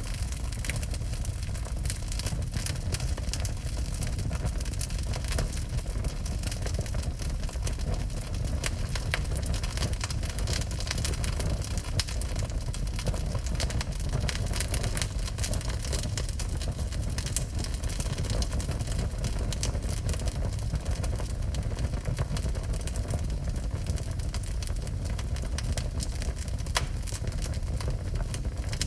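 Wood fire burning in a fireplace: a steady low rumble with frequent sharp crackles and pops throughout.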